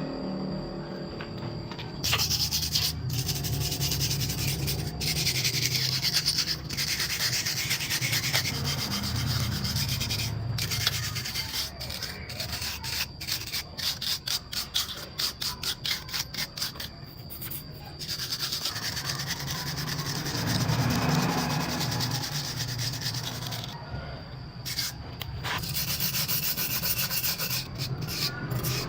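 Sanding or scrubbing by hand on a machine part: rough rubbing strokes that turn quick and regular in the middle, with two short pauses.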